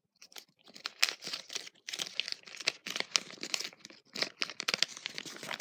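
Thin folded paper instruction leaflet from a Kinder Surprise toy being unfolded by hand: quick, irregular crinkling and rustling of paper.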